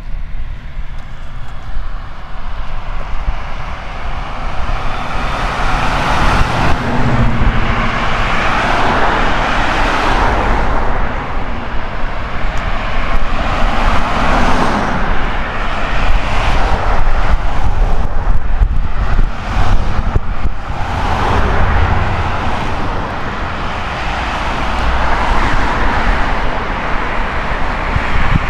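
Road traffic passing: cars driving by one after another, each swelling and fading, over a steady low rumble.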